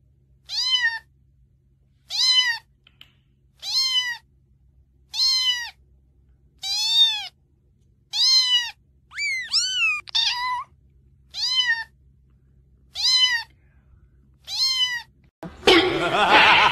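Cat meows repeated about a dozen times, roughly every second and a half. Each call is a short rise and fall in pitch, and the calls are nearly identical: a meow sound played to call a cat over. Near the end a louder, rougher noise takes over.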